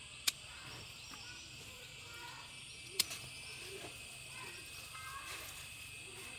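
Steady high-pitched insect chorus with faint bird chirps; two sharp clicks stand out, one just after the start and one about three seconds in.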